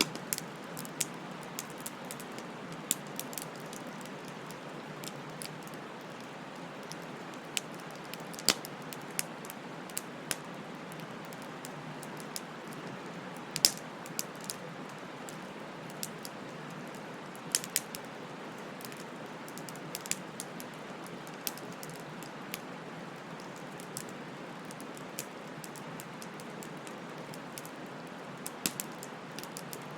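Wood fire crackling: irregular sharp pops and snaps over a steady low hiss, with a few louder pops now and then.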